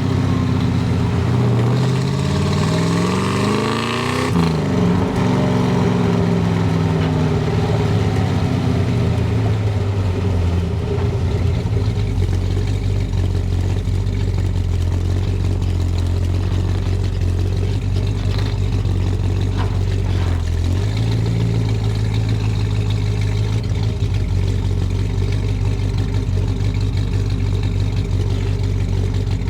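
Exhaust of a 1967 Chevrolet Impala SS's 396 big-block V8 under way, picked up by microphones on the rear bumper. Revs climb for about four seconds, fall off sharply, and then the engine settles into a steady cruising drone that dips briefly once.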